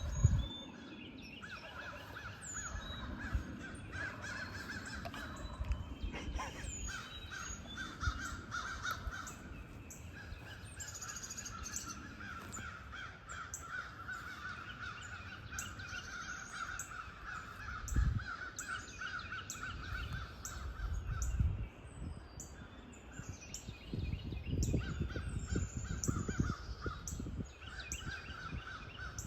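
Wild birds calling: repeated cawing and higher chirps and whistles, over gusts of wind buffeting the microphone.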